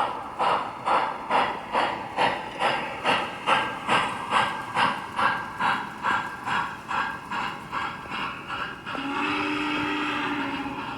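Model steam locomotive sound system, the MTH Z6 Challenger's, chuffing steadily at about two beats a second, then blowing its steam whistle for about two seconds near the end.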